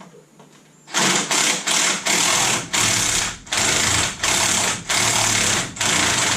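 Impact wrench rattling in a run of short trigger bursts with brief pauses, starting about a second in.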